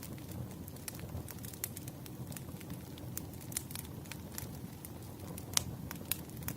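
Wood fire crackling: a steady low rumble of burning logs with irregular sharp pops and snaps, the two loudest about five and a half and six seconds in.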